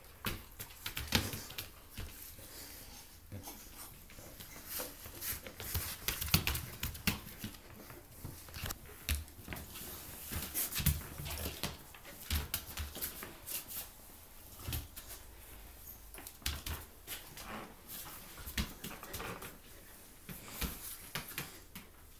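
A chow chow and a Samoyed play-fighting: irregular scuffling, bumps and clicks of paws and bodies, with dog noises mixed in.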